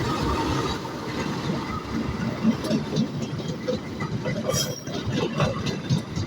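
A train running on the rails: a continuous rumble with many short, irregular knocks from the wheels.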